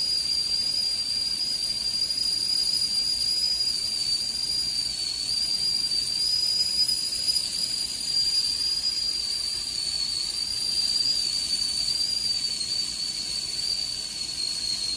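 Willow & Everett stainless steel dual-whistle stovetop kettle whistling at the boil with one steady, high-pitched squeal over a hiss of steam, instead of the intended harmonic two-tone sound: steam escaping around the loose-fitting lid.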